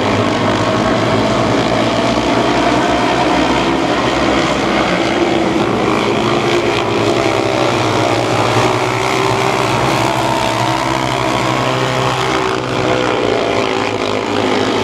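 A field of mini sprint race cars running at racing speed, their small engines overlapping in several buzzing notes that rise and fall as the cars go round the track.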